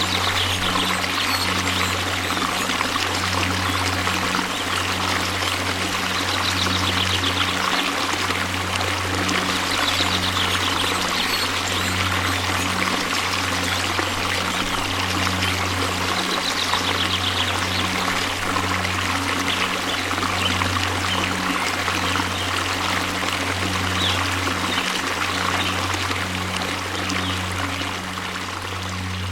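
Waterfall: a steady rush of falling water, with a low hum underneath. It dips slightly in loudness near the end.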